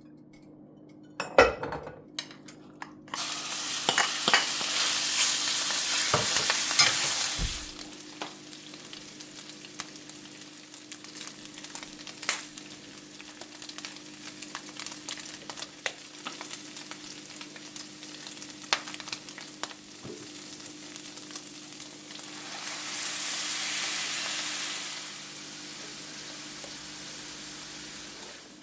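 Food frying in a hot pan. It hisses loudly for several seconds after a knock, settles to a lower crackling sizzle with scattered utensil clicks, and swells again near the end.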